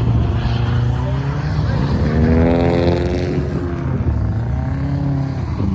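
Subaru Impreza's flat-four boxer engine revving under load, its pitch climbing about a second and a half in and then dropping back as the revs fall.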